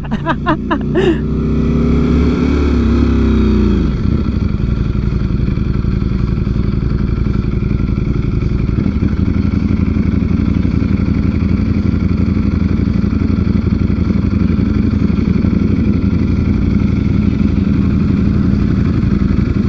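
Ducati Streetfighter V4S's V4 engine: the revs drop steeply over the first few seconds as the bike slows, then it settles into a steady low run.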